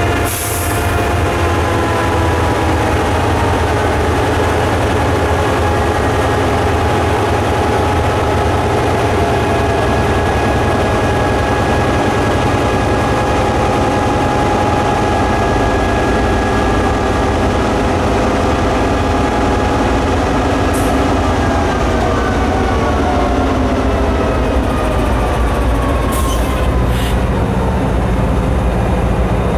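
Diesel freight train locomotives running with a steady low rumble and several engine tones. From about two-thirds of the way through, some of the tones slide slowly down in pitch. A few short, sharp high sounds come near the end.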